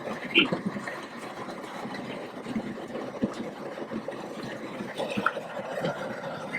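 Steady rush of a propane burner under a pot of boiling crawfish-boil water, with a few small knocks.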